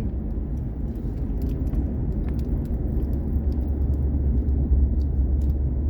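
Road noise inside a moving vehicle: a steady low engine-and-tyre rumble with a few faint light rattles.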